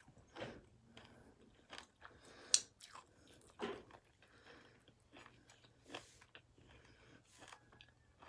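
Close-up chewing and biting of crunchy battered fried calamari and fish: faint, irregular crunches and mouth clicks, with one sharper crunch about two and a half seconds in.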